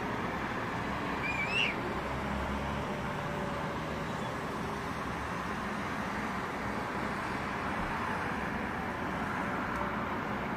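Steady city traffic noise, an even wash with no single event standing out, broken once by a brief high chirp about a second and a half in.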